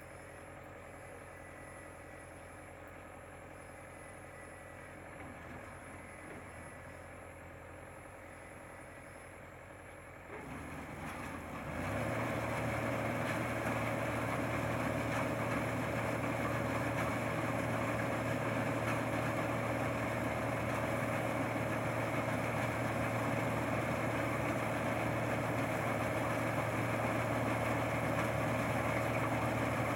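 Rice combine harvester's engine running steadily at low speed, then about ten seconds in rising to a louder, steady working speed with a strong low hum.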